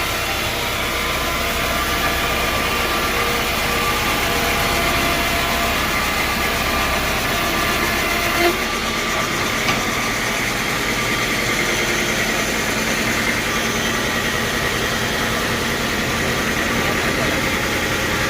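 Sawmill machinery running steadily, with two short sharp knocks about eight and a half and ten seconds in.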